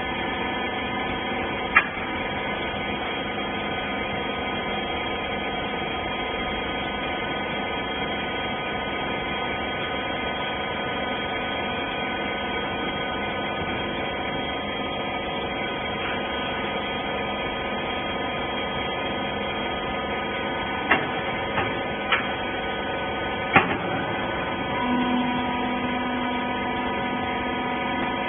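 Hydraulic rag baler's motor and pump running with a steady hum. There is a sharp knock about two seconds in and a few more clanks about three-quarters of the way through, after which a lower tone joins the hum.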